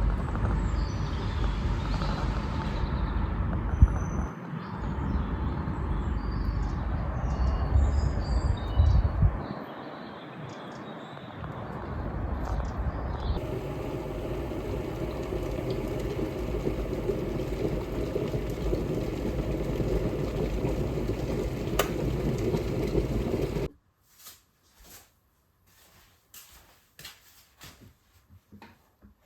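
Steady low rumbling noise of a moving vehicle, changing in tone partway through, then cutting off suddenly about three-quarters of the way in to near silence with faint scattered taps.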